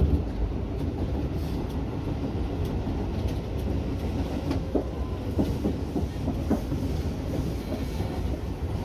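Tobu Urban Park Line electric train running on the rails, heard from the front cab: a steady low rumble, with a quick run of wheel clicks over the track about halfway through.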